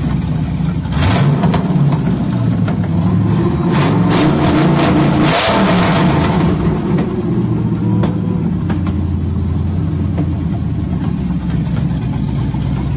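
LS1 V8 engine swapped into a 1995 Impala, running on its first start: it is revved, climbing to a peak about five seconds in and dropping back, then settles into a steady idle.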